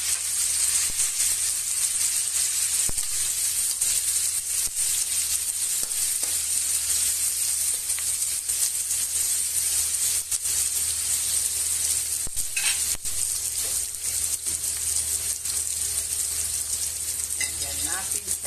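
Pork, garlic, onion and tomato sizzling steadily in hot oil in a wok, with a spatula scraping and clicking against the pan now and then as it is stirred.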